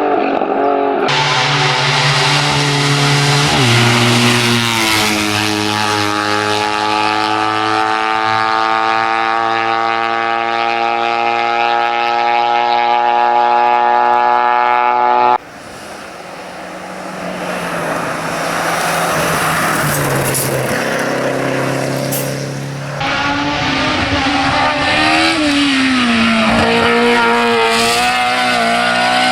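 Hill-climb race car engines at high revs, in clips cut together. There is a long run with the engine note held high and slowly rising. Then a quieter car approaches, growing louder, and near the end an engine note dips and climbs again as the car brakes and accelerates.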